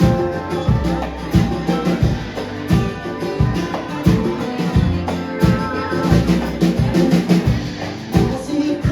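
A live band playing an instrumental stretch, with a drum kit keeping a steady beat under guitar.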